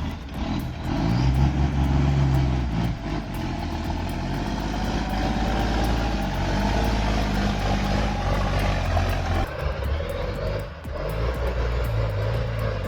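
Heavy logging truck's engine labouring under load, its pitch creeping up over several seconds. The sound changes abruptly about nine and a half seconds in, then the engine carries on.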